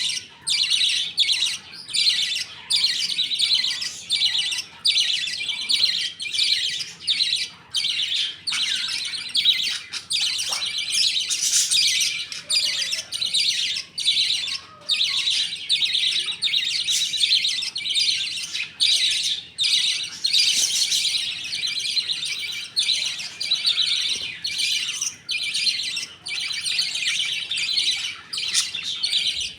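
A flock of budgerigars chattering and chirping continuously, many birds calling at once.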